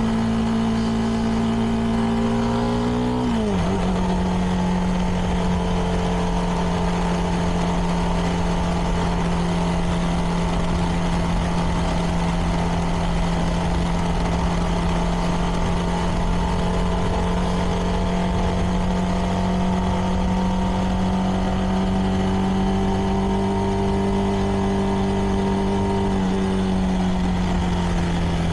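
CFMoto 300NK's single-cylinder engine running through its stock exhaust while cruising on the road. About three seconds in the engine note drops sharply as it shifts up a gear. It then holds steady, climbing slightly, and sinks gently near the end as the throttle eases off, with wind rush underneath.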